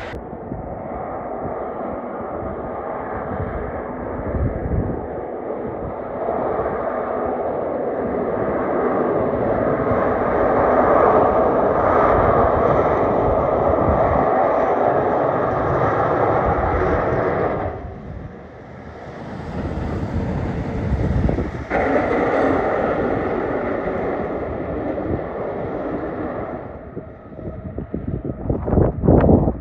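Road traffic with heavy trucks driving past: a steady rumble of diesel engines and tyres that swells and fades, dipping briefly about two-thirds of the way in.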